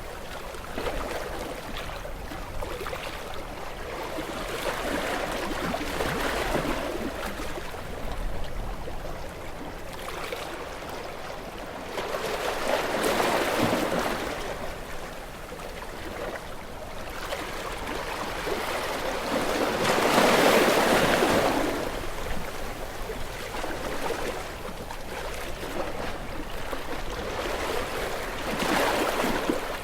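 Gentle waves breaking on a beach and washing up the shore, a soft rush that swells and falls back; the biggest swells come about 13 seconds in, near 21 seconds and again near the end.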